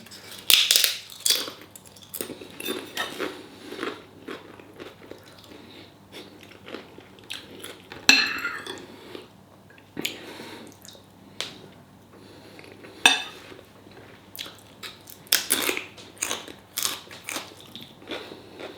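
Cutlery clinking and scraping against a plate, with sharp clinks at irregular intervals and chewing in between.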